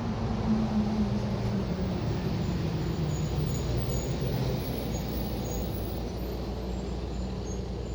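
Engine of a passing road vehicle: a low rumble whose hum falls in pitch over the first few seconds, then runs on steadily.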